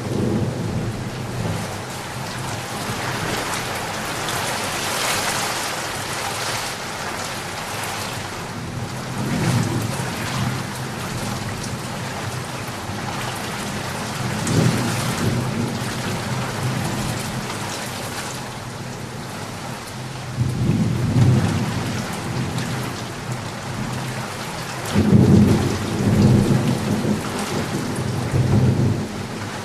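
Steady heavy rain with several low rolls of thunder swelling up over it, the heaviest near the end.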